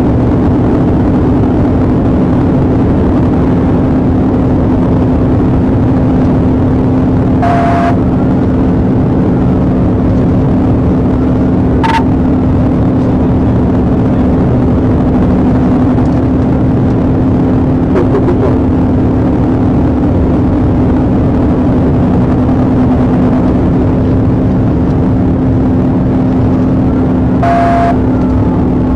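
Steady loud road and engine noise of a police car driving at speed in a pursuit, with a constant low hum. Two short electronic beeps, about seven seconds in and again near the end, and a single click around twelve seconds.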